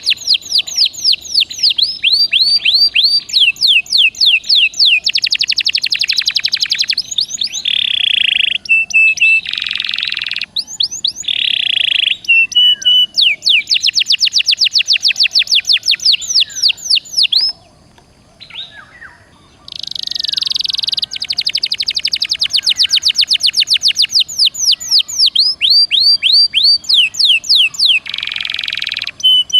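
Domestic canary singing vigorously: long runs of fast repeated trilled notes alternating with buzzy rolls, with a short break about two-thirds of the way through.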